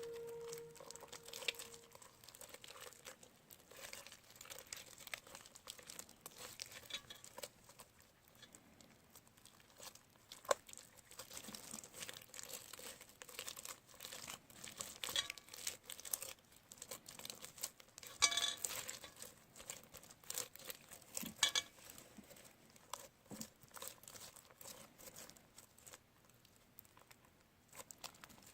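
Hands kneading, stretching and pulling apart a stiff, over-activated clear slime, making faint irregular crackles and tearing sounds. Too much borax has made it hard, so it rips instead of stretching.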